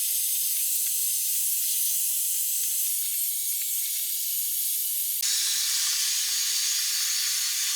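Handheld hair dryer blowing steadily, heating old decals to loosen their glue. Its airflow shifts to a fuller, lower rush about five seconds in, and it stops abruptly at the end.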